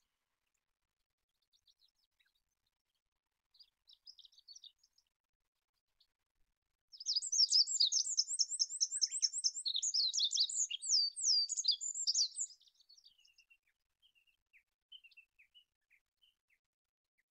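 Olive-backed pipit singing: a few faint high chips, then about seven seconds in a loud, rapid, high-pitched trilling song phrase lasting about five seconds, followed by faint scattered notes.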